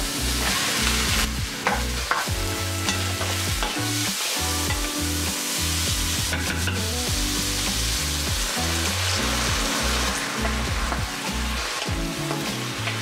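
Diced zucchini frying in olive oil with garlic in a nonstick pan, sizzling steadily, while a wooden spoon stirs and scrapes the pieces around the pan.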